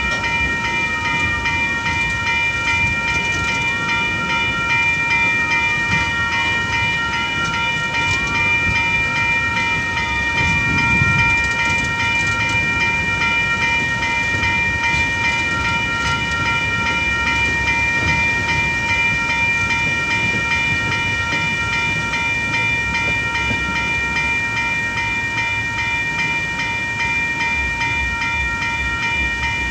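Freight train wagons rumbling and clattering over the level crossing, loudest about eleven seconds in, while the crossing's warning bells ring steadily. A few brief squeals rise and fall in pitch during the first ten seconds.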